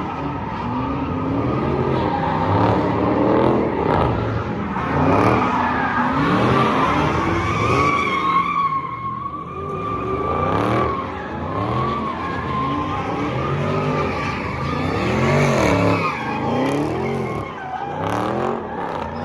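Cars doing donuts and burnouts, engines revving up and falling back again and again, with tires screeching as they slide.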